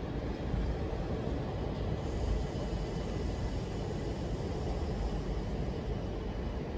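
Steady rumble of an SNCB electric passenger train running through the station, with a hiss that comes in higher up about two seconds in.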